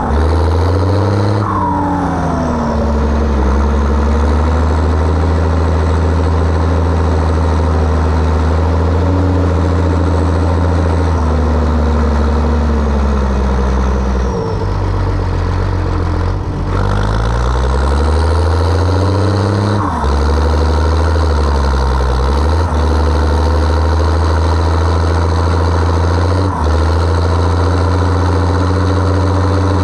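Zetor ZTS 16145 tractor's turbocharged six-cylinder diesel working under heavy load pulling a deep cultivator, its engine speed sagging and recovering several times. Falling turbo whistles are heard as it eases off, and a few short sharp clicks come in the second half.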